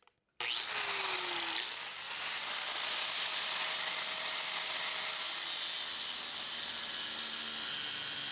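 Angle grinder switched on about half a second in, its whine rising as the motor spins up and then holding steady and high while it cuts the coil-spring steel.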